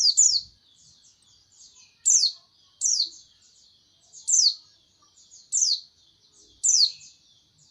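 Pleci (white-eye) songbird singing: loud, sharp, high chirps that slide down in pitch, repeated about once a second, with softer twittering between them.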